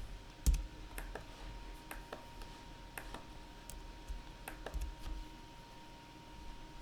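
Scattered, irregular clicks from a computer mouse and keyboard.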